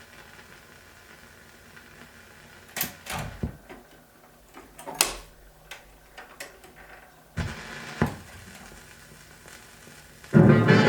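Surface noise of a 78 rpm shellac record between selections: a steady hiss with scattered sharp clicks and pops. The hiss grows louder about seven seconds in, and the band's music starts loudly near the end.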